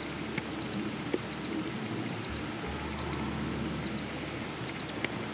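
Quiet outdoor ambience: faint high bird chirps, often in quick pairs, over a steady hiss, with a few soft clicks.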